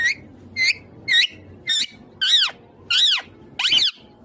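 Indian ringneck parrot (rose-ringed parakeet) calling: a run of about seven short, shrill, high-pitched squawks, each rising and falling in pitch, roughly one every half second or so.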